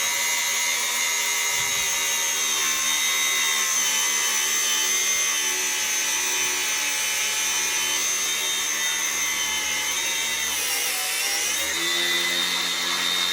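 Handheld electric power tool running steadily under load, working its way through a seized suspension U-bolt. Its pitch sags about eleven seconds in and then picks back up.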